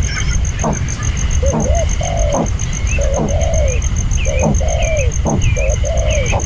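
Dove cooing over and over, its calls coming about once a second, with small high chirps joining in over the second half. A fast, steady, high-pitched pulsing and a low rumble run underneath.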